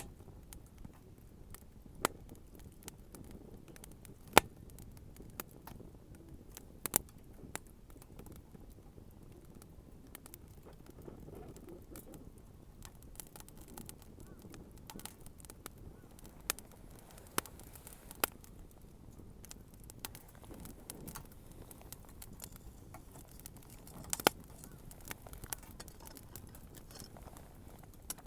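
Wood bonfire crackling: sharp, irregular pops every few seconds over a low, steady rush of burning.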